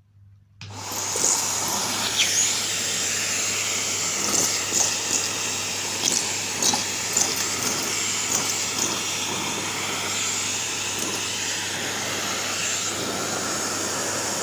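Green Henry cylinder vacuum cleaner starting up about half a second in and running steadily, with many short sharp clicks and rattles as small hard objects like buttons and craft eyes are sucked up the hose.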